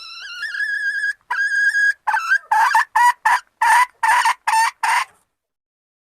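Junglefowl hen calling: a long rising note, then a steady held note, then a quick run of about eight short clucking notes, roughly three a second, that stops abruptly. It is the hen's call of readiness to mate.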